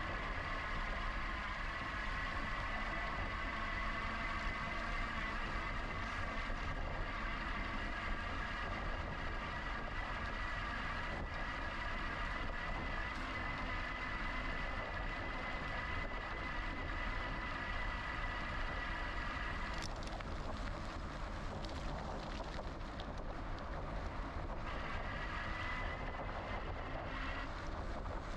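GoCycle GX electric bike being ridden: wind on the microphone and tyre noise, with the motor's steady high whine, which cuts out about twenty seconds in and comes back briefly near the end.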